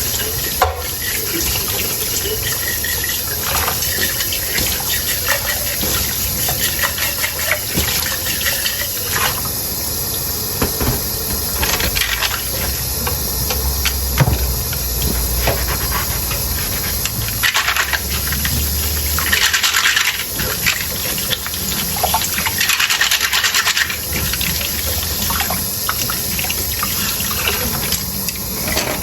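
Dishes being washed by hand under a running tap, with water splashing into the sink and scattered knocks and clinks of tableware. The water gets louder twice around the middle.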